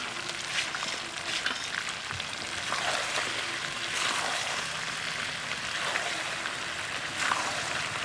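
Chicken and fried potatoes in spiced masala sizzling in a large metal karahi, with scattered scrapes and clinks of a metal spatula stirring them in.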